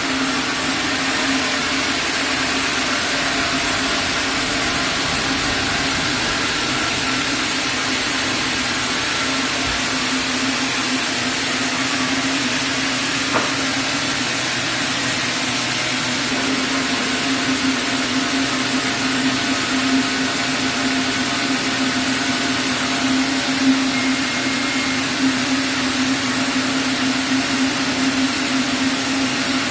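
Sawmill band saw running steadily with a constant hum as it cuts through a chinaberry log.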